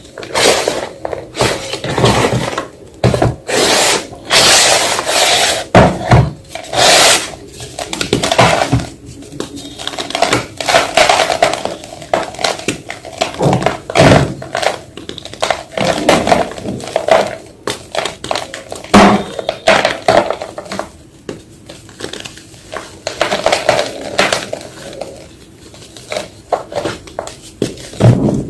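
White gym chalk being crushed: an irregular run of crisp crunches and crumbling, with short pauses between bursts.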